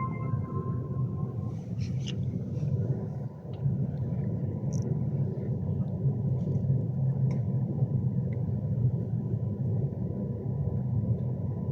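Steady low rumble inside the passenger saloon of a Class 390 Pendolino electric train on the move. A held electronic chime tone dies away about a second and a half in.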